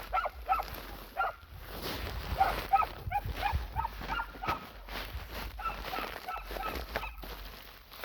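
A dog whining and yipping in short, high calls, coming in several quick runs.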